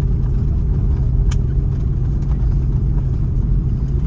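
Steady low rumble of an Airbus A330 airliner cabin in flight, the engines and airflow heard from a passenger seat, with a light click about a second in.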